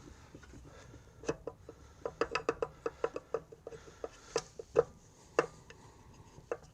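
Two screwdrivers prying at the stuck crankcase cover of a Honda GX140 engine: a run of irregular light metal clicks and taps, with a few louder ones after about four seconds. The cover is held fast on its locating dowels and seal.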